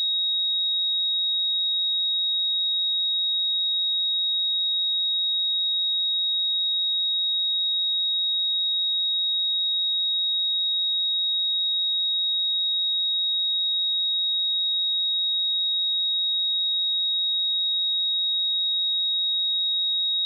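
A steady, high-pitched pure sine tone at 3781 Hz, a speaker test signal, held at one pitch and level throughout.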